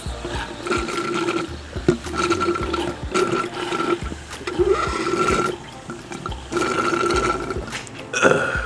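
A person drinking a beverage noisily, in a series of short liquid pulls about half a second each, repeated through the stretch, with a sharper louder sound near the end.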